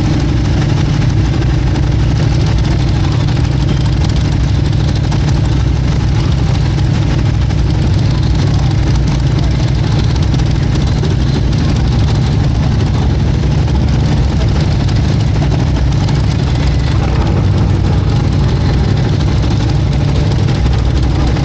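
Motorcycle engine idling steadily, a continuous low rumble that does not change.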